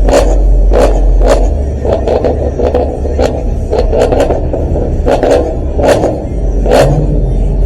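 Car engine revving hard over a steady low rumble, with irregular sharp cracks about once or twice a second.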